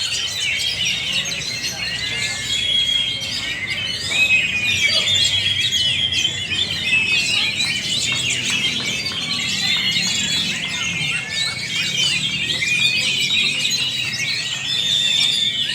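Many caged Oriental magpie-robins (kacer) singing at once, a dense, unbroken tangle of overlapping chirps, trills and short whistles.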